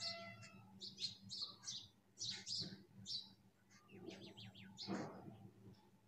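Birds chirping: a string of short, high chirps, with a quick run of about six notes about four seconds in, over a faint steady low hum.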